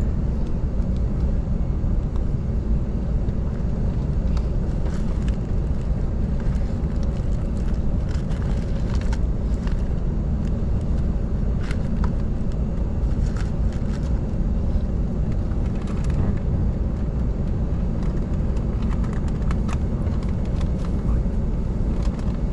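Airbus A380 cabin noise during the taxi after landing: a steady low rumble from the engines and the rolling airframe, with scattered light clicks and rattles.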